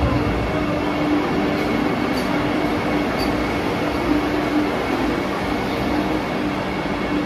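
Vande Bharat Express electric trainset running at a station platform: a steady hum with one constant low tone and no sudden changes.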